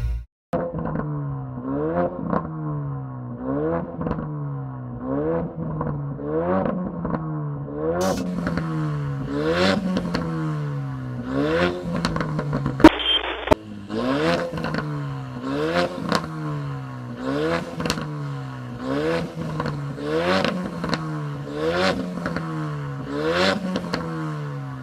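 Ford Mustang 2.3 EcoBoost turbocharged four-cylinder engine revved over and over through an aftermarket sport exhaust. Quick throttle blips come about once a second, each pitch rising and then falling, with a brief break partway through.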